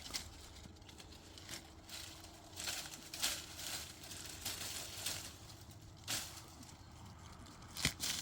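Irregular short rustling and scraping noises, about eight separate strokes, the sharpest near the end.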